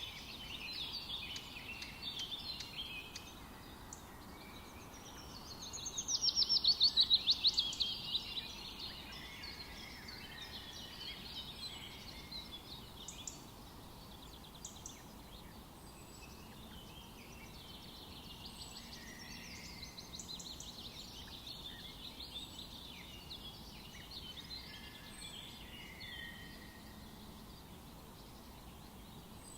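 Several forest birds singing, with overlapping songs and chirps throughout over a faint steady hiss. About six seconds in, one bird sings a loud, fast trill of rapidly repeated notes lasting about two seconds.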